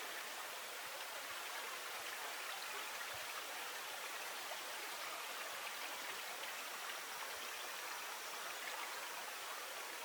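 Steady rushing of flowing water, even throughout, with a faint thin high tone joining about two-thirds of the way through.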